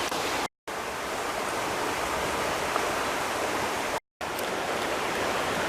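Steady, even outdoor rushing noise, broken by two brief dead-silent gaps, about half a second in and about four seconds in.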